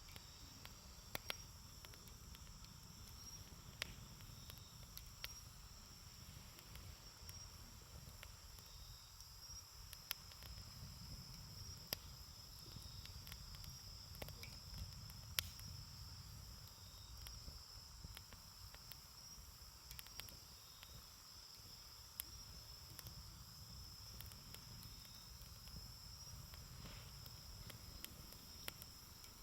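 Wood fire crackling, with about a dozen sharp, irregular pops from the burning wood over a low rumble. Crickets trill steadily and high-pitched throughout.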